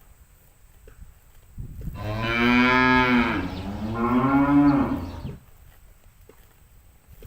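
A cow mooing: one long moo in two parts, starting about one and a half seconds in, first sliding down in pitch, then rising and falling again before it stops a little past five seconds.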